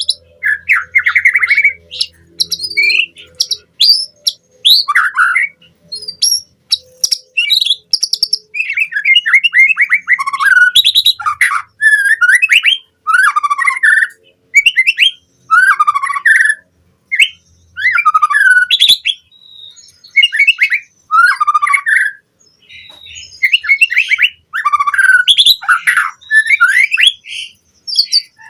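White-rumped shama (murai batu) singing a fast, varied song of short, loud whistled and chattering phrases that follow one another with brief pauses.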